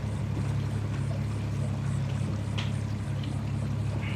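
Motorboat engine running steadily under way: a low, even drone that does not change.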